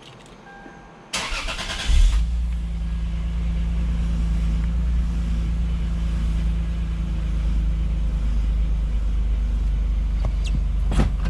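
Lexus GS heard from inside the car: a loud rasping burst about a second in, then the car running with a steady low engine and road rumble. This is the test drive after new front upper control arms were fitted to cure a suspension squeak, and no squeak stands out.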